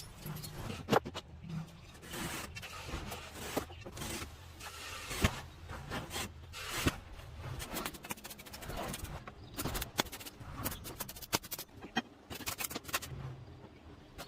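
Irregular scraping with many sharp clicks and knocks on a hard object, over a low steady hum.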